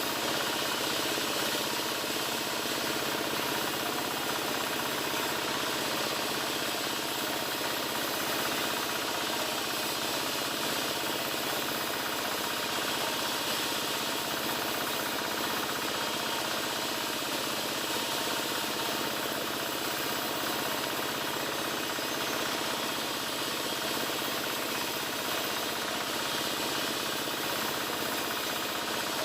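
Power wood saw running steadily while cutting albasia timber into roof battens, a continuous even machine noise that does not rise or fall.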